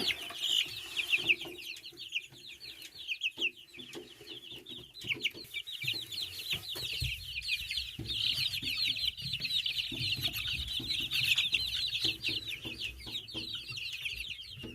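A crowd of young chicks peeping continuously: many rapid, high, falling peeps overlapping one another, with scattered light taps.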